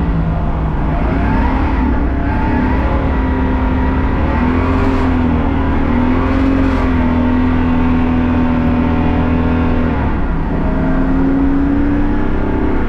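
BMW race car's engine running hard at speed. Its pitch climbs early on, holds fairly steady for several seconds, dips briefly about ten seconds in, then climbs again.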